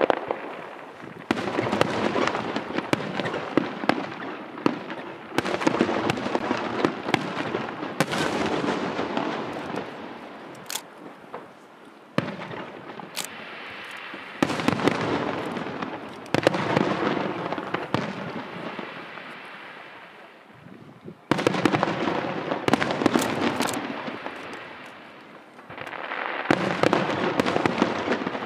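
Aerial fireworks show: about eight volleys of shells bursting one after another. Each volley starts suddenly as a dense spray of crackling bangs, then fades over a few seconds before the next begins.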